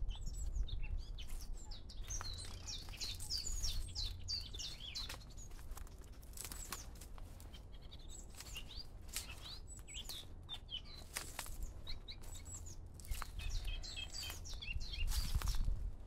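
Songbirds singing in clusters of quick, high chirping phrases, over a steady low rumble and scattered light clicks.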